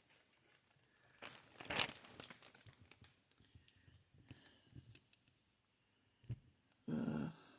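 Plastic packaging crinkling and rustling as it is handled and pulled away, with scattered small clicks. The loudest rustle comes about two seconds in, and a brief, louder, lower sound comes near the end.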